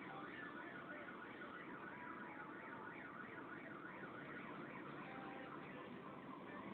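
Faint electronic warbling alarm, a tone sweeping up and down about two to three times a second over a low background hiss.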